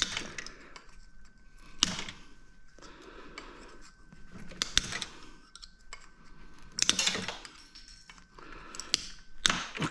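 Hand cutters snipping small parts off a salvaged computer component: sharp clicks spaced irregularly a second or more apart, with light metallic clinks.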